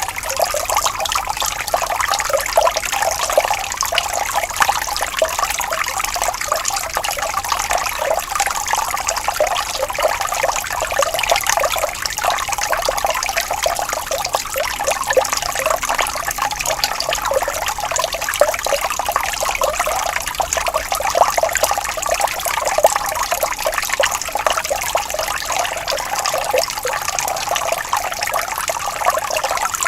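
Water flowing gently and steadily over stones, a constant trickling and babbling made of many small splashes.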